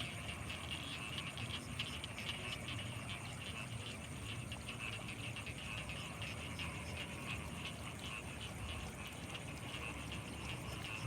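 Night chorus of frogs and insects from rice paddies: a dense, rapid trilling chatter with a thin, steady high-pitched whine above it, over a low rumble.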